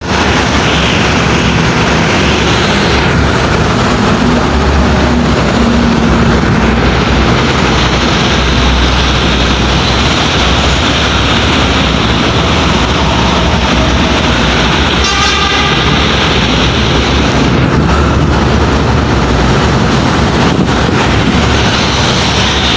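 Heavy trucks passing on a busy road: steady, loud diesel engine and tyre noise, with a brief horn toot about two thirds of the way through.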